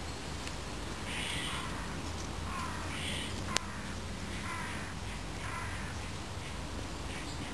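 Harsh, crow-like bird calls, several in a row, over steady background noise, with one sharp snap about halfway through.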